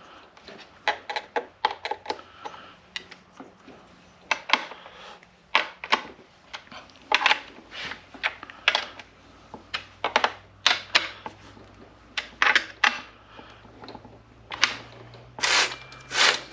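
Irregular metallic clicks and clattering of a chainsaw's bar and chain being fitted and the chain tightened by hand, with a few longer rattles near the end.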